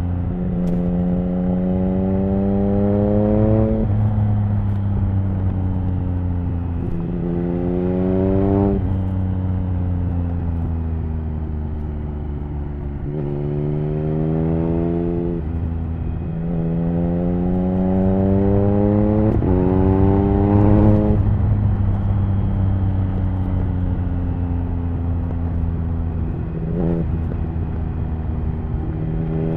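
Triumph Speed Triple 1050's inline three-cylinder engine through an HP Corse Hydroform exhaust under way. The engine note climbs in pitch under acceleration and drops sharply at each gear change, again and again.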